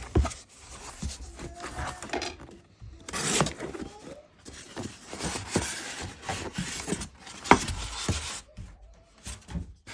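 Packaging of a soundbar being handled during unboxing: irregular rustling of wrapping with scattered knocks and thumps, the sharpest knock about seven and a half seconds in.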